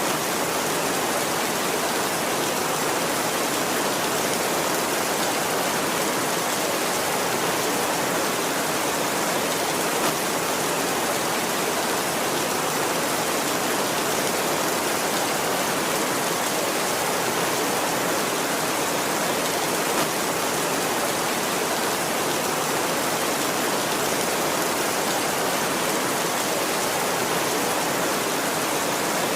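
Heavy rain falling steadily, an even hiss of countless drops with no thunder.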